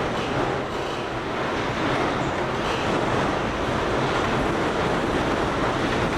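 Gale-force wind blowing steadily outside the hut, heard from inside as a continuous loud rushing noise.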